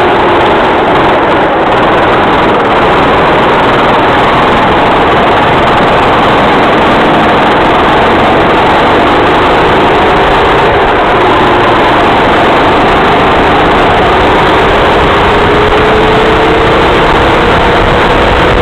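Racing kart engine running at speed under a loud, steady rush of noise, its pitch dipping and rising as the kart brakes and accelerates, climbing near the end.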